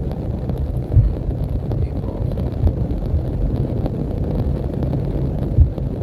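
Vehicle driving in heavy rain, heard from inside: a steady low road rumble with faint rain ticks. Two thumps from bumps in the road, about a second in and near the end.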